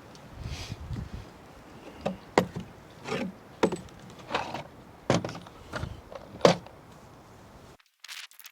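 A series of about ten sharp knocks and thuds at an uneven pace, some with a short ring after them, ending with an abrupt cut to much quieter sound near the end.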